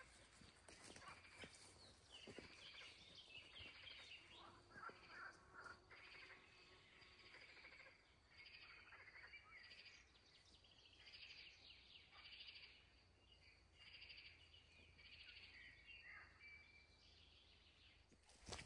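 Faint birds chirping now and then over quiet outdoor ambience.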